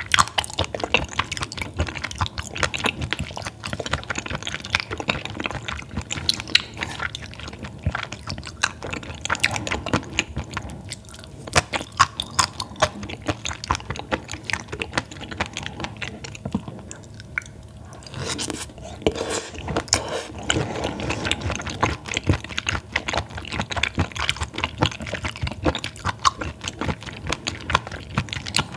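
Close-miked wet chewing and mouth noises of someone eating raw baby squid sashimi, irregular clicks and smacks throughout, with a quieter stretch in the middle.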